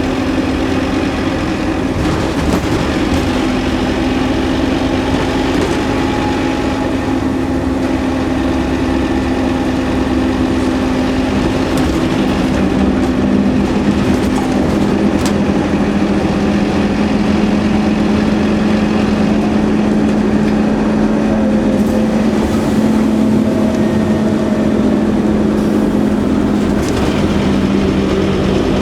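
Scania N230UD double-decker bus's diesel engine and ZF automatic gearbox running steadily under way. The engine note drops a little about twelve seconds in and rises again near the end.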